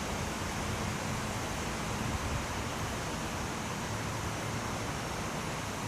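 Steady rushing noise with a faint low hum underneath, with no sudden crack or rumble.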